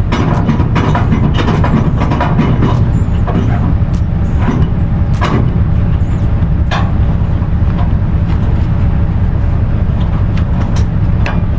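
Semi truck running with a steady low rumble, with scattered clicks and knocks, more of them in the first half.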